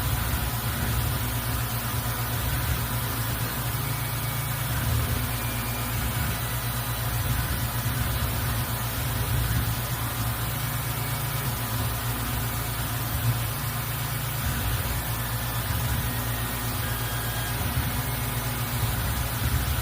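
CNC mill running steadily while engraving a name plate: a constant low machine hum under a steady hiss, with brief high whines that come and go.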